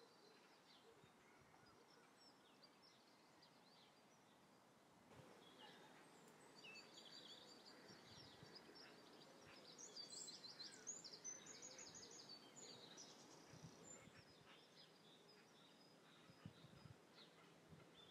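Faint outdoor ambience with small birds chirping. The chirping grows busier partway through and includes a quick run of rapid high notes a little after the middle.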